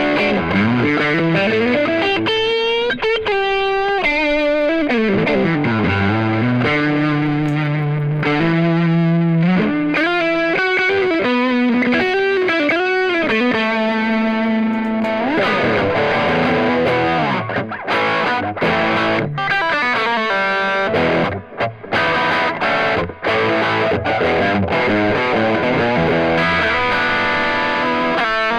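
PRS S2 Custom 24 electric guitar with Seymour Duncan pickups played through distortion and effects, lead lines with bent and sliding notes. From around the middle, short choppy notes with brief gaps between them.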